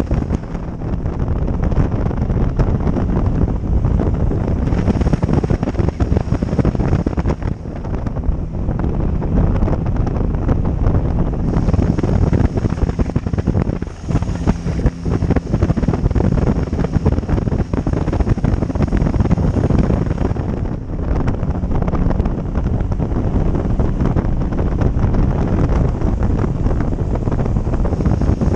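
Heavy wind noise buffeting the microphone of a motorcycle riding at speed, with the motorcycle's engine running underneath; the rush eases briefly twice.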